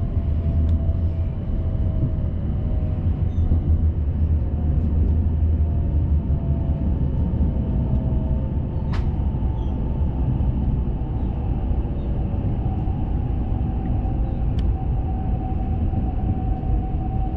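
Shinkansen bullet train running at speed, heard inside the passenger cabin: a steady low rumble with a faint whine that slowly drifts in pitch, and two brief clicks about nine and fifteen seconds in.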